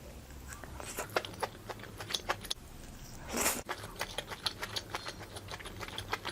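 Close-up eating sounds of barbecue being chewed: a string of irregular small clicks and crunches, with one brief louder rustling burst about three and a half seconds in.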